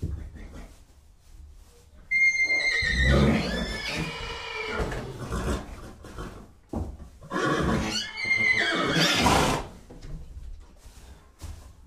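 Horse whinnying twice: a long call starting about two seconds in, opening high and falling in pitch, then a second call about seven and a half seconds in.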